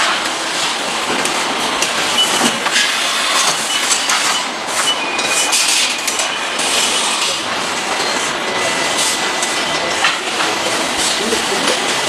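Factory machinery on a motorcycle assembly line: continuous clattering, rushing noise with scattered knocks and a few brief high whines.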